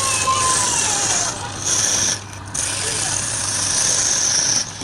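Wood lathe running with a steady low hum while a turning tool cuts the spinning wood, giving a loud high hiss in three passes that start and stop, the longest about two seconds.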